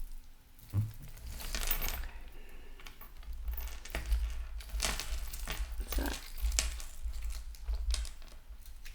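Costume jewelry being handled and sorted: irregular small metallic clinks and rustling.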